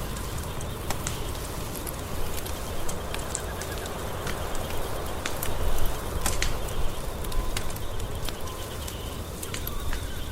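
Wood fire burning in a fireplace, crackling with scattered sharp pops over a steady low rumble; one pop just under six seconds in is the loudest.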